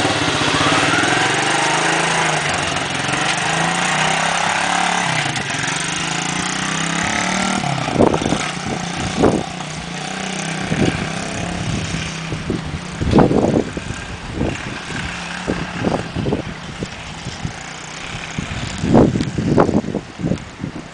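Single-cylinder four-stroke engine of a 110cc DLX pit bike revving up as it rides away, then running more steadily and fainter as it carries on across a field. From about the middle on, gusts of wind buffet the microphone with loud thumps.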